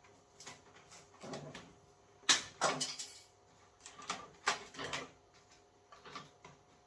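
Irregular scraping and knocking of a hand tool being worked into a 3D-printed plastic part to make a hole, with the loudest knocks about two and a half and four and a half seconds in.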